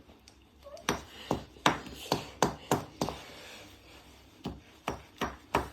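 A run of sharp knocks, each with a brief metallic ring, about three a second, then slower and more widely spaced in the second half.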